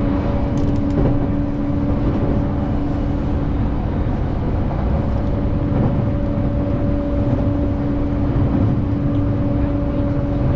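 Inside a JR Sobu Rapid Line commuter train running between stations: a steady low rumble of wheels on track, with a steady motor hum over it.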